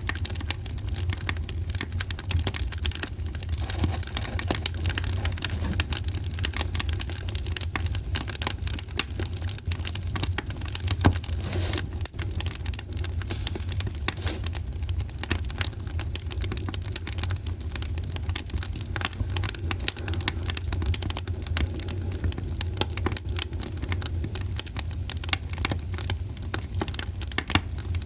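Wood fire crackling, a dense run of small snaps and pops over a steady low rumble, with one louder pop about 11 seconds in.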